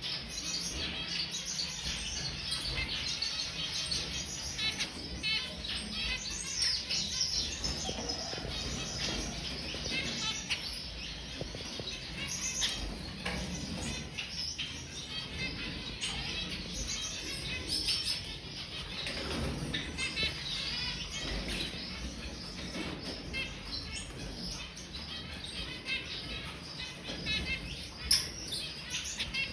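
Zebra finches calling, a steady stream of many short, high chirps overlapping one another.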